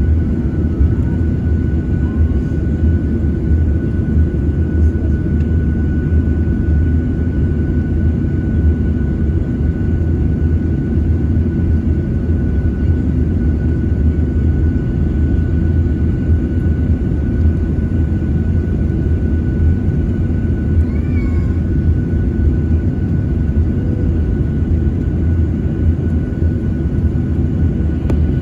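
Boeing 737-900ER's CFM56-7B jet engines heard from inside the passenger cabin: a steady, even roar with a constant high whine on top.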